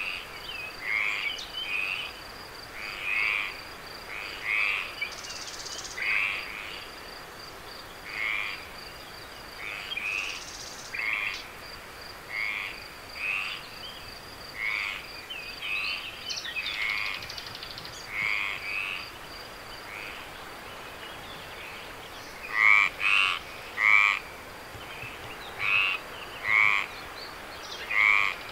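Night chorus of frogs giving short, repeated croaking calls, roughly one or two a second, with a few louder calls near the end. Behind them runs a steady high insect trill.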